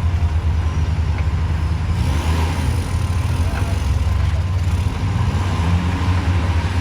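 Tata heavy-duty tipper truck's diesel engine running with a deep, steady drone, its pitch rising and falling a couple of times as the revs change.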